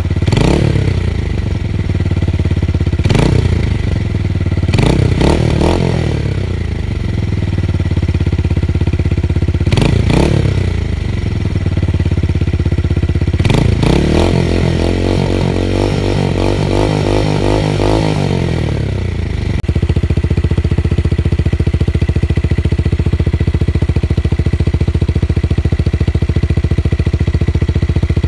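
Tuned motorcycle engine revved with several quick throttle blips, each dropping back. A longer rev is held for a few seconds, then the engine settles into steady running for the last third.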